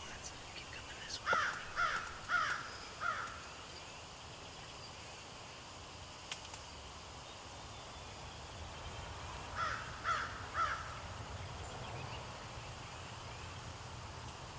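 A crow cawing outdoors: four caws about half a second apart near the start, then three more about ten seconds in.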